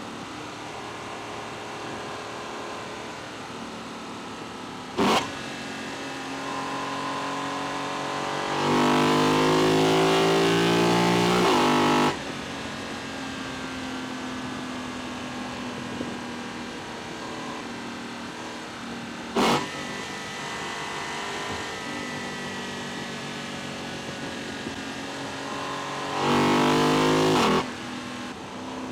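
Lexus LC 500's 2UR-GSE V8 heard at its intake from inside the engine bay, running steadily, then accelerating hard twice, about a third of the way in and near the end, its pitch rising each time and cutting off suddenly when the throttle closes. Two very short sharp bursts stand out, about five seconds in and about two-thirds of the way through.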